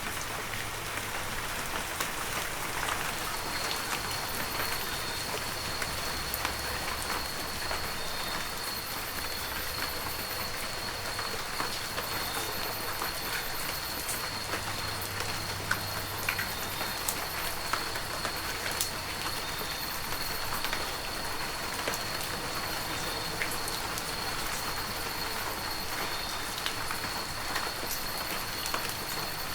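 Heavy rain falling steadily, with many sharp hits of single drops close by. A thin, steady high-pitched tone joins about three seconds in.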